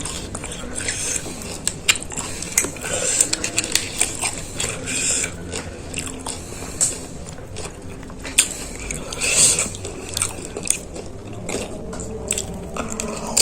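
Panipuri being eaten close to the microphone: crisp fried puri shells crunching and being chewed in a dense, irregular run of clicks and crackles.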